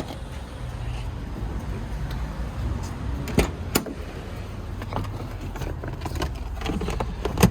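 A steady low car engine hum with a few sharp clicks and knocks, two close together about three and a half seconds in and another near the end.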